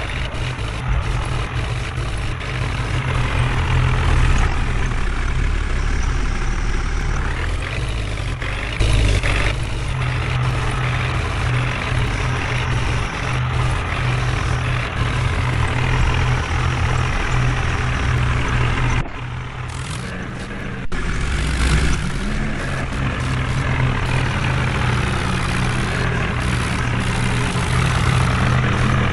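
A heavy diesel engine running steadily under a dense mechanical noise, with a brief drop in level about two-thirds of the way through.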